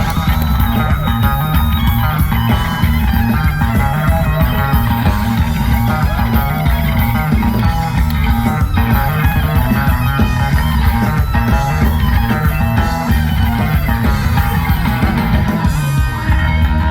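Live rock band playing an instrumental passage: distorted electric guitar over bass and drums, heard loud in a concert crowd recording.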